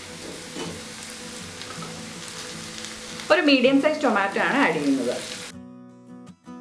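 Sliced onions, garlic and chillies sizzling in hot oil in a frying pan as tomato pieces go in and a steel spoon stirs. About three seconds in, a person's voice comes in louder than the sizzling, and near the end the sound drops away abruptly.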